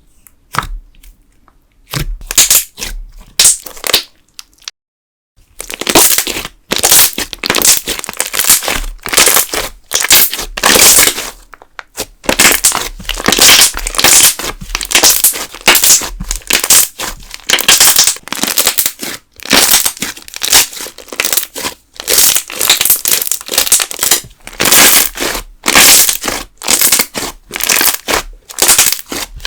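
Thick candle slime (soy wax in a wood-glue and school-glue base) being worked by hand, giving rapid crackling and popping in quick bursts. The sounds are sparse at first, pause briefly about five seconds in, then run almost without a break.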